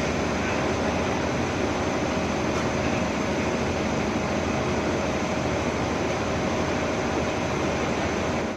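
Excavator's diesel engine running steadily: an even low rumble with a constant hum over it.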